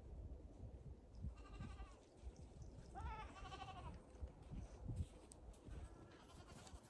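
Goats bleating faintly: a short bleat about a second and a half in, a longer wavering bleat around three seconds in, and a faint one near the end, over a low rumble.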